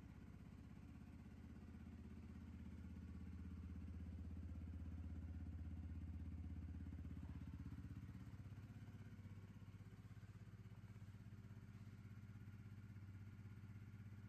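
Suzuki GSX-S125's single-cylinder 125cc engine idling steadily, getting a little louder towards the middle and easing off again.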